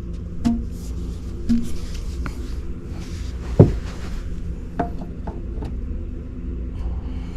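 A few sharp knocks and clicks, the loudest about three and a half seconds in, over a steady low hum.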